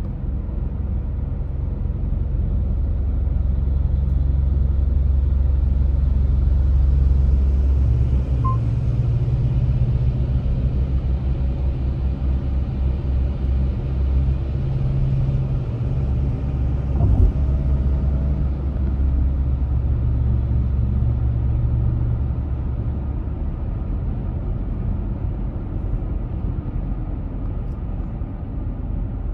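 Car on the move: a steady low rumble of road and engine noise that swells for a while and then eases a little, with a single brief knock about 17 seconds in.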